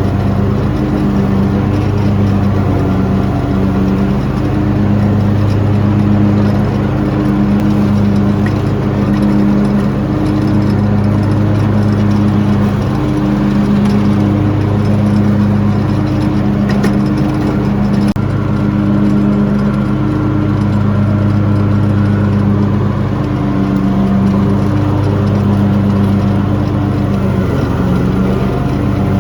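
Tractor engine running steadily at a constant speed, its note rising and falling slightly every second or two.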